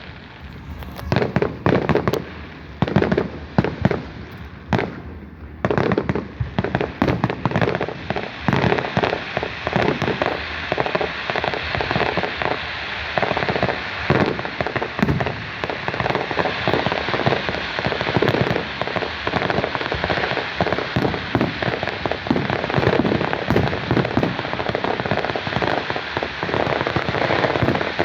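Fireworks display going off: a run of separate bangs, a short lull about five seconds in, then a dense, continuous crackle of many quick reports.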